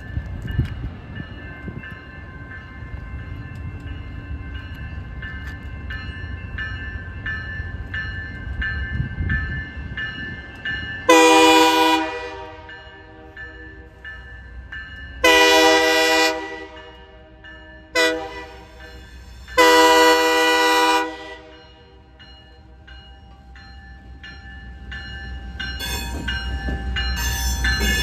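Diesel switching locomotive sounding its air horn four times, long, long, short, long: the grade-crossing signal. Under and between the blasts runs the low rumble of its engine, which grows louder near the end.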